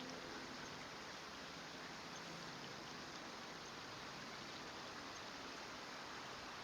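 Steady rush of running water from a stream, an even hiss with no distinct calls or knocks.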